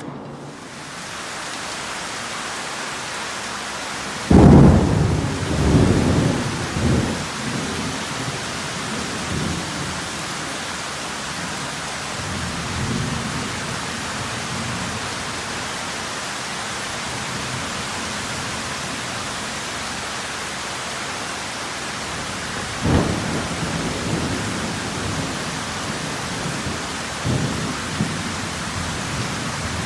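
Heavy rain falling steadily during a thunderstorm. A loud, sudden thunderclap comes about four seconds in and rumbles on for several seconds; a second, sharper clap comes later, with further rumbles near the end.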